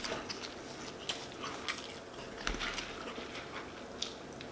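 Faint chewing of a shrimp po'boy sandwich: a few scattered wet mouth clicks and smacks.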